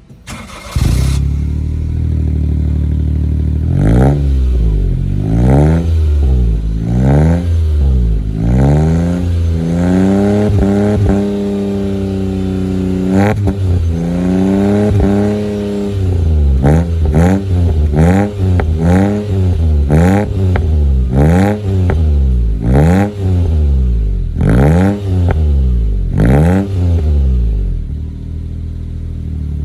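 Honda Life JB5's 660 cc three-cylinder engine breathing through a Mugen Power aftermarket muffler: it starts about a second in, idles, then is revved repeatedly with rising and falling pitch, including two longer held revs, then a run of quick throttle blips, and settles back to idle near the end.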